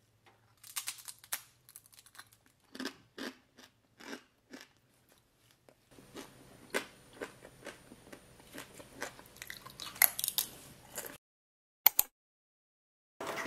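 Someone biting into and chewing crunchy food: a string of irregular crunches, with a faint steady hum beneath them from about halfway through and a single sharp click near the end.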